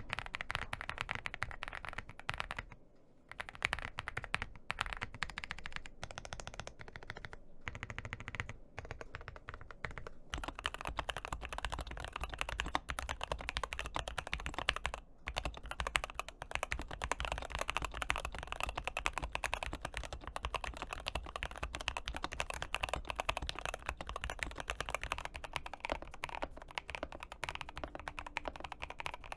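Continuous fast typing on mechanical keyboards, dense rapid key clacks. About ten seconds in, the keyboard changes from a Zoom 98 to a Shadow X, and the keystrokes gain a deeper thump. The typing pauses briefly twice, once early and once in the middle.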